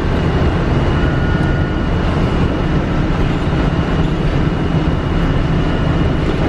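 Walt Disney World monorail running, heard from inside the car: a steady loud rumble with a thin steady whine above it.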